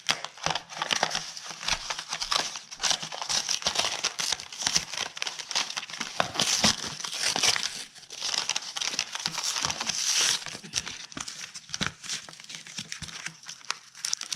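Crinkly plastic packaging being handled and torn open, with dense crackling and rustling throughout.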